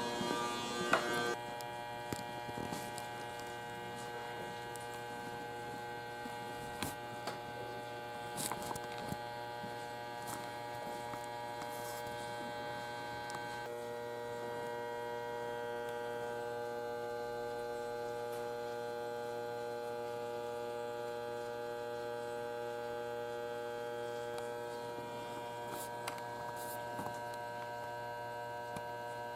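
Steady electrical hum with several held tones, from an electric train car's onboard equipment, with a few light clicks. The mix of tones shifts about 14 seconds in and again near the end.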